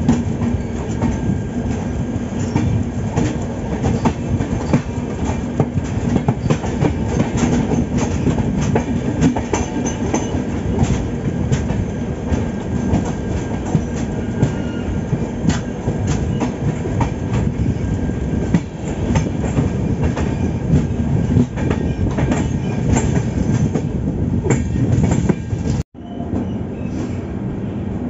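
Express train running at speed, heard from an open coach doorway: a steady rumble of the wheels with rapid clickety-clack over the rail joints. The sound cuts out for an instant near the end.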